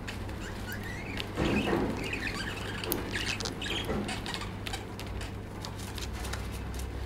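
Lovebird chirping and chattering in short squeaky calls, mostly in the first half, with scattered light clicks and scratches over a low steady hum.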